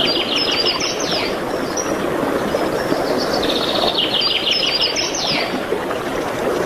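A songbird singing twice, about three seconds apart: each phrase is a rapid run of high notes ending in a few quick falling notes. A steady noisy background runs underneath.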